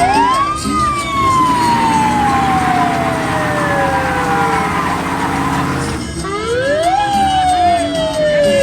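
A siren wound up twice: each time the wail climbs quickly, then slowly winds down in pitch over several seconds. A rough hiss and a steady low engine-like rumble sit underneath.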